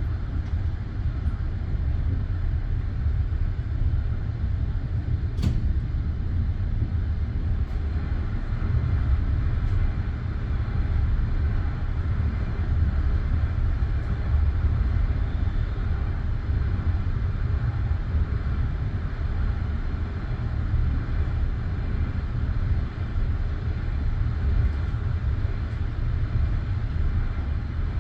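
Steady low rumble of a passenger railway carriage, heard from inside the coach, with one sharp click about five seconds in.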